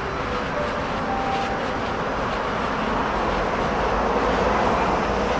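Electric train running along the line, a steady rumble and rush that grows slightly louder toward the end.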